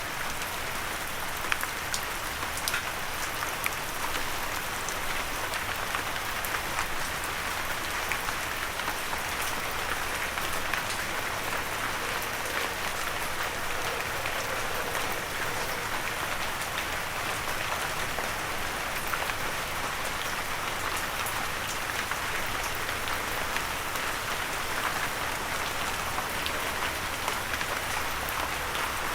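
Steady light rain, a constant hiss made of many fine drop patters, with no thunder.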